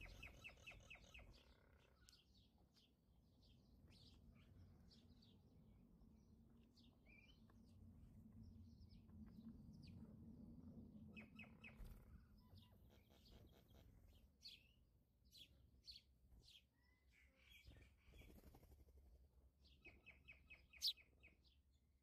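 Near quiet, with faint bird chirps repeating throughout over a low background hum. A single sharp click near the end.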